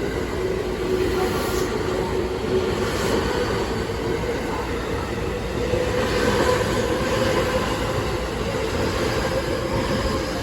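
JR West 225 series and 223 series electric train cars pulling out and gathering speed, wheels running on the rails under a steady electric motor whine that rises slightly in pitch.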